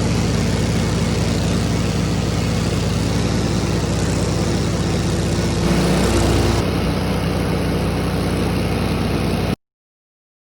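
Riding lawn mower engine running steadily, with a brief rise in level about six seconds in. It cuts off suddenly near the end.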